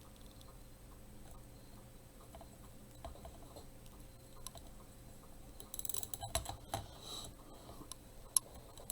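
Light plastic clicking and rattling as fasteners are worked through small holes in plastic candy trays, faint at first, with a busy run of clicks about six seconds in and one sharp click near the end.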